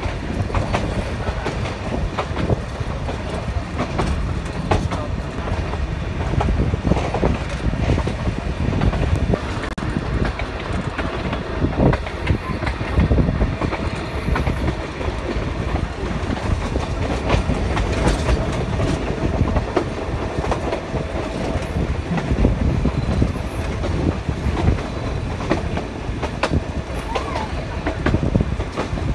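Ooty toy train of the Nilgiri Mountain Railway running along the track, heard from aboard. There is a steady rumble, with the clickety-clack of the coach wheels over the rail joints.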